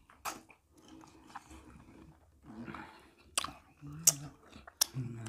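Close-miked mouth sounds of eating: wet chewing with several sharp lip smacks, and a couple of short low murmurs in the middle and near the end.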